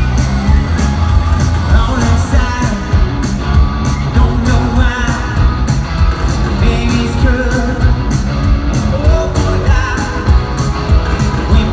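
Live rock band playing with a singer over a steady drum beat and guitar.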